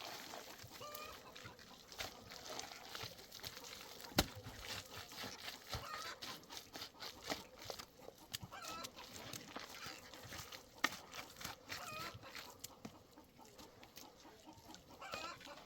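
Chickens clucking in short repeated calls, with scattered sharp knocks and one louder knock about four seconds in.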